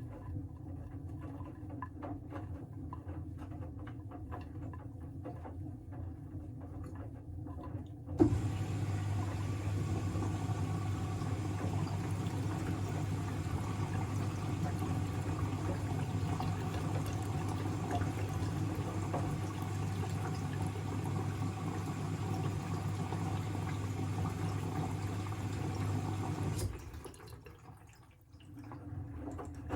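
Siemens WM14T490 front-loading washing machine mid-cycle. About eight seconds in, water starts rushing through it with a steady electric hum, as a pump or inlet valve switches on. It cuts off suddenly a few seconds before the end, leaving the quieter machine sound.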